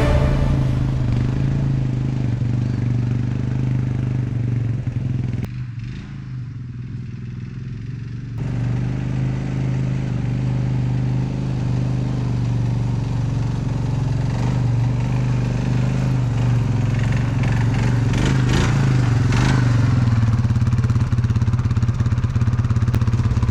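Vehicle engine running steadily, turning quieter for about three seconds partway through before picking back up.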